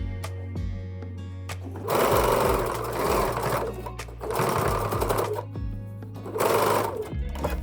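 Sewing machine stitching in three runs, the first about two seconds in and the last one short, starting and stopping between runs.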